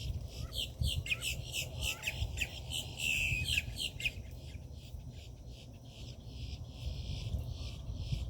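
Birds at a feeder giving many quick, overlapping chirps and calls, busiest in the first half. A steady high insect drone runs underneath.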